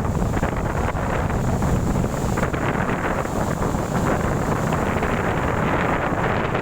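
Strong windstorm wind blowing steadily and buffeting the microphone.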